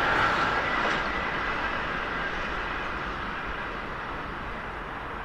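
A train's rolling noise, fading steadily as it moves away.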